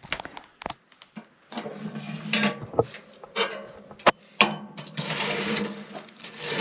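Metal clicks and rattling from a wood stove's door and latch being worked open to check the fire. Between the clicks there are stretches of steady rushing noise.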